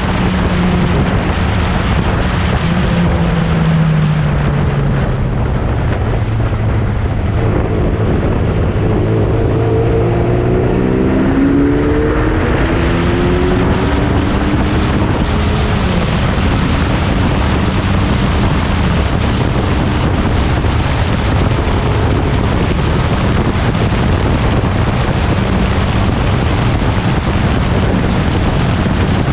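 1960s prototype racing car engines running at speed on a circuit. One engine note falls away over the first few seconds; around 8 to 13 seconds several notes climb as cars accelerate. Throughout there is dense noise with wind buffeting the microphone.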